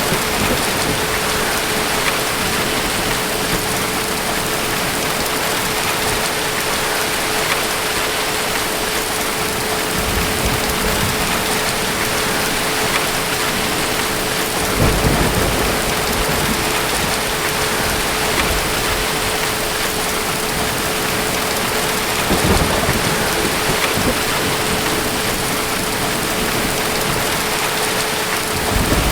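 Steady heavy rainfall with low rumbles of distant thunder, the strongest about halfway through and another near the end.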